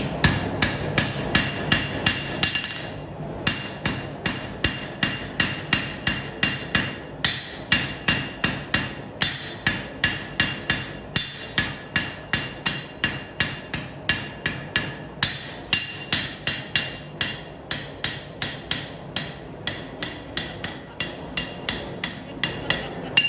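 Hand hammer striking hot steel on an anvil in a steady rhythm, about two and a half blows a second, each blow ringing, as a knife blade is forged. There is a brief pause before the hammering resumes.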